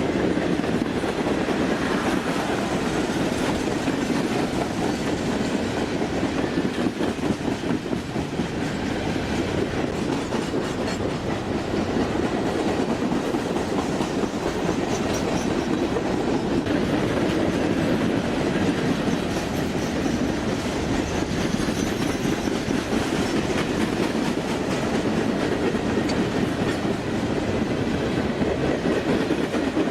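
Train cars rolling past on the rails, a steady run of wheel-on-rail noise that holds at an even level.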